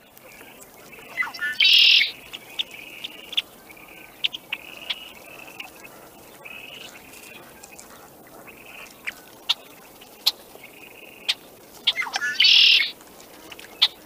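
Red-winged blackbird singing its gurgling, buzzy conk-la-ree song twice, about ten seconds apart, with short sharp call notes and fainter phrases in between.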